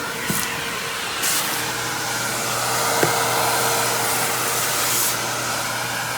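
Simplicity Symmetry Deluxe upright vacuum's 12-amp single-stage motor running in tool mode, air rushing through the extended wand and hose. The suction noise swells for a few seconds in the middle and drops back, with a sharp knock about three seconds in.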